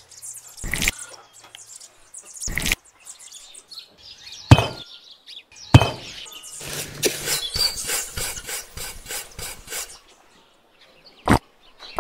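Miniature clay bricks and a small trowel working wet cement by hand: several sharp knocks a second or two apart, then a run of quick scraping and clicking, and a few more knocks near the end.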